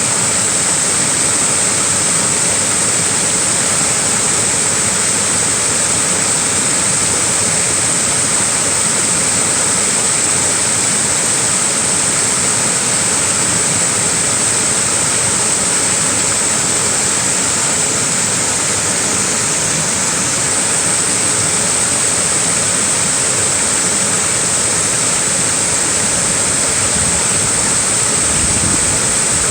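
Small waterfall splashing steadily, a continuous even rush of falling water.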